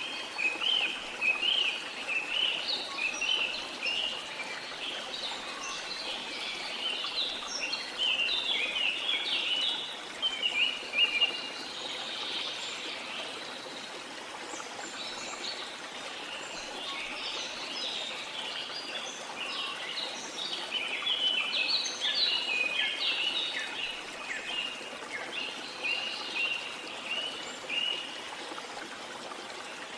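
Many birds chirping and calling in quick overlapping notes over the steady rush of flowing water. The chirping thins out for a few seconds in the middle, then picks up again.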